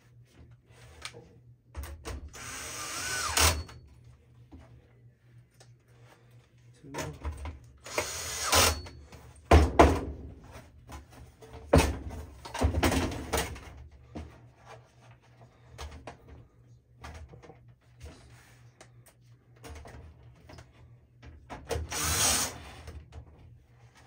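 Power drill/driver running in about five short bursts, driving 1/4-inch hex screws back into a battery charger's case, with small clicks and handling between the runs.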